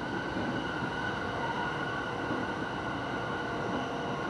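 Running noise of an electric commuter train heard from inside a passenger car: a steady rumble of wheels on rail with a steady high tone above it.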